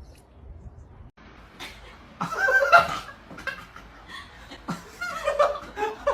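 A person laughing in short bursts, starting about two seconds in and breaking out again a few times.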